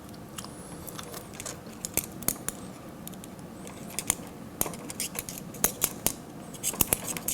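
Irregular small metallic clicks and ticks from hands working push-on wire connectors off a sterilizer's water pump terminals. The clicks grow more frequent in the second half.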